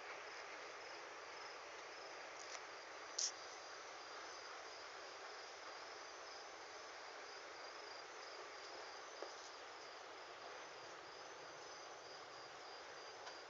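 Steady hiss of rain falling, with a cricket chirping in a steady, evenly repeating pulse over it. A brief sharp click sounds about three seconds in.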